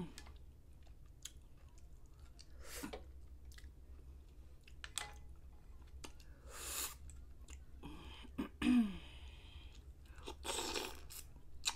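Close-miked mouth sounds of a person eating mussels in butter sauce: wet chewing with scattered short noisy bursts, and a brief throaty vocal sound about eight and a half seconds in.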